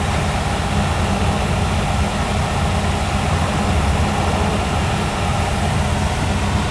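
Old car driving along: a steady low engine rumble with road noise.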